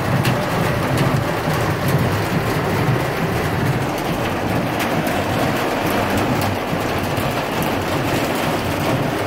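Pea-size hail and heavy rain pelting a car's roof and windows, a dense, steady patter of many small hits, heard from inside the car.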